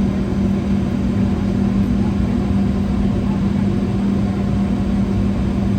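Cabin noise inside a Boeing 717: the rear-mounted Rolls-Royce BR715 turbofans running at low ground power, a steady hum over a dense rumble and hiss.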